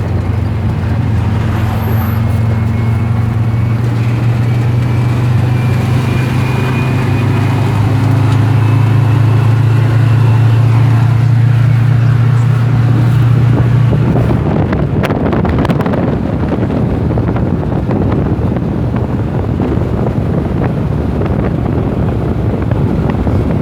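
Steady engine and road noise of a car driving, heard from inside; about fourteen seconds in, the low drone gives way to a rougher rushing noise.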